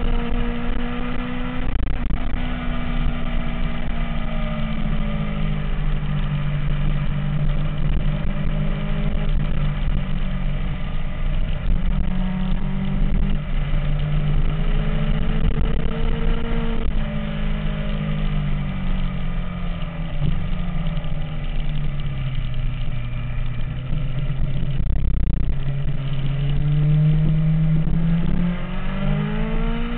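MV Agusta F4 inline-four engine running, its pitch slowly rising and falling several times as the revs change.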